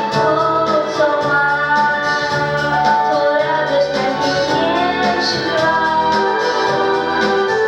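A young woman singing a song with held, wavering notes over a steady instrumental accompaniment.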